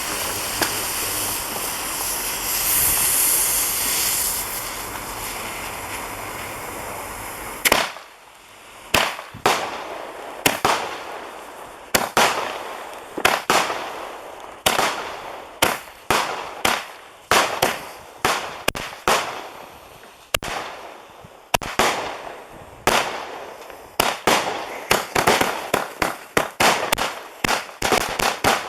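CT Pyro 'Whole Shabang' 75-shot firework cake: a steady hiss, then about eight seconds in the cake starts firing, a run of sharp shots each trailing off, roughly one a second and coming faster toward the end.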